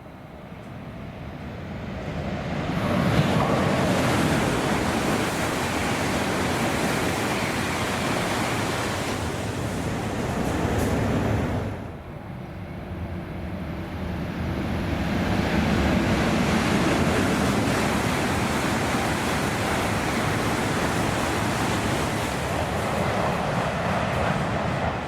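Shinkansen bullet train passing at high speed, a loud rush of air and wheels that swells as it approaches. About halfway through, the sound drops off suddenly, then a second high-speed rush builds and holds.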